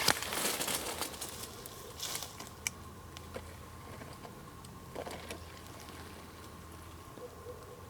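Faint rustling with a few scattered small clicks and snaps, louder in the first second, over a faint steady high tone.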